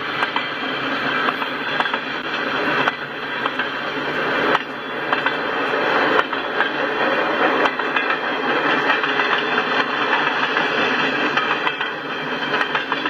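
Freight cars rolling past: a steady rumble of steel wheels on the rails, with frequent clicks and clanks.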